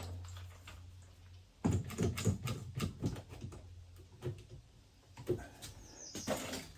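Irregular light knocks and clicks from hands-on work on kitchen upper cabinets, a busy cluster about two seconds in and more scattered ones after, over a low hum that stops early on.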